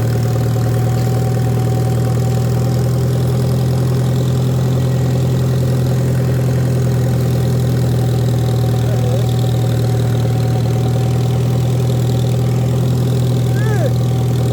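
Tractor engine running at a steady speed while mowing.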